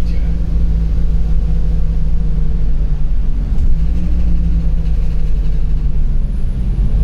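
LiAZ 5292.65 city bus engine running steadily, with a low drone and road rumble under the floor. The engine note eases slightly lower over the first few seconds.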